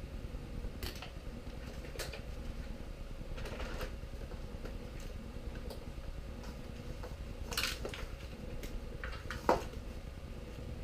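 Scattered clicks and snips of scissors cutting thick zip ties and pulling them free, with one sharper snap about nine and a half seconds in, over a steady low hum.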